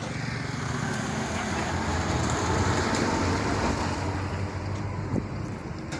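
A motor vehicle passing on the road, its engine rumble and tyre noise swelling to a peak about halfway through and then fading.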